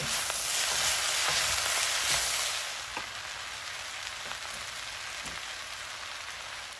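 Yakisoba noodles and vegetables sizzling in a frying pan, a steady hiss, with spatulas clicking and scraping as they toss the noodles for the first few seconds. The stirring stops about three seconds in and the sizzle carries on a little quieter.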